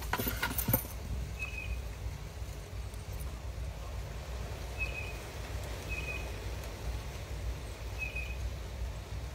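A few quick clicks in the first second as a puppy's paws step onto a wooden platform. Then a steady low outdoor rumble, with a small bird chirping four times in short high notes.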